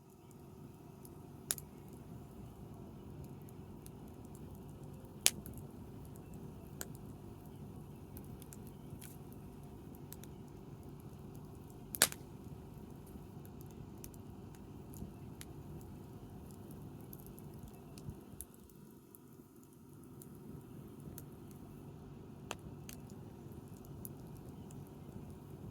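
Wood campfire burning with a steady low rush and occasional sharp crackling pops from the burning wood, the loudest about five and twelve seconds in.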